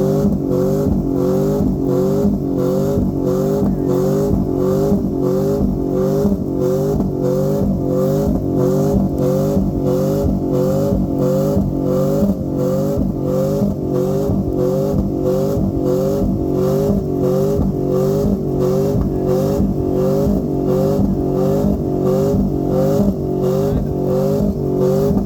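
A vehicle engine held at high revs, its pitch pulsing up in short rises about twice a second for the whole stretch.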